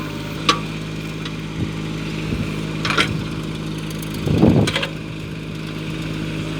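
Mini tractor's engine running steadily at idle, with a few short sharp clicks and one brief louder burst about two thirds of the way through.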